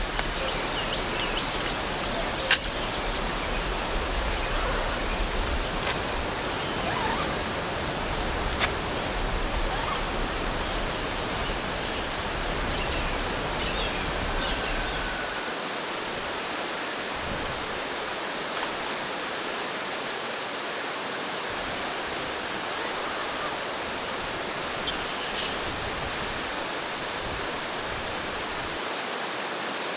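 Steady rushing sound of water, as from heavy rain or a running stream, with a few faint bird chirps. A low rumble underneath stops about halfway through.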